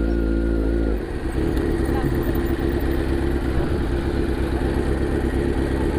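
Motorcycle engine running as the bike is ridden: a steady engine note with a continuous rush of wind and road noise.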